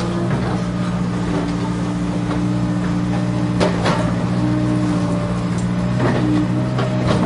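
Remote-control toy excavator running: a steady engine-like drone whose higher pitches switch on and off, with a few sharp clacks about three and a half seconds in and again near six seconds.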